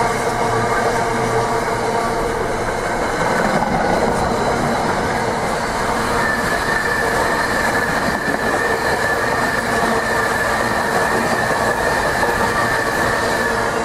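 A train running past on the rails, loud and steady, with a high steady squeal setting in about six seconds in.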